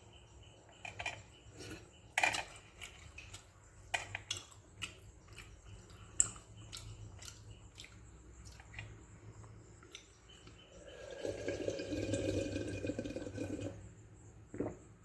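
Wet eating sounds from a dish of watery fermented rice: scattered moist clicks, smacks and squelches of eating, then a longer, louder wet sound for about three seconds near the end.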